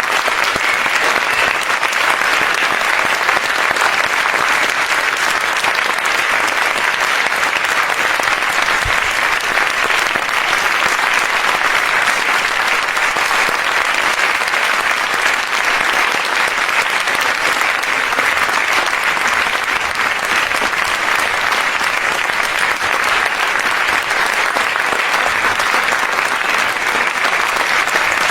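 A large audience applauding: dense, steady clapping of many hands, holding at an even level without swelling or dying away.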